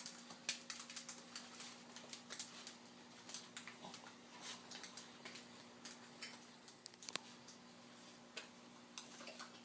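Faint, irregular ticks and light taps over a low steady hum.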